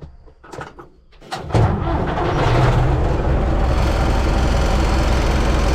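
A few clicks, then a U650 tractor's four-cylinder diesel engine comes in suddenly about a second and a half in and runs steadily and loudly.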